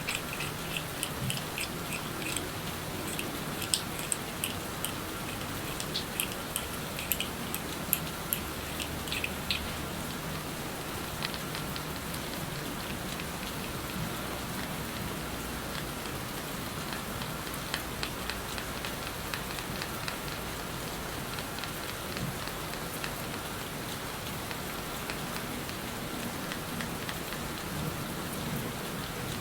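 Steady rain noise from a background rain track. Over it, a run of small sharp clicks and taps for the first ten seconds or so, then only the odd one.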